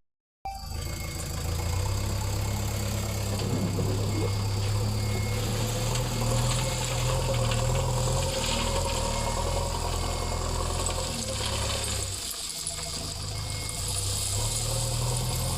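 JCB 3DX backhoe loader's diesel engine running steadily, dipping briefly about twelve seconds in before picking up again.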